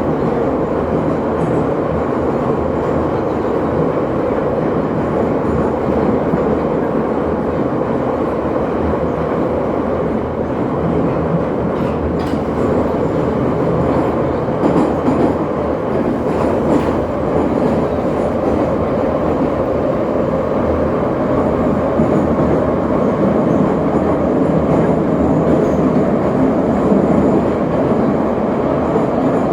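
Metro train running between stations, heard from inside the carriage: a steady noise of wheels and motors on the track, with a couple of brief clicks partway through.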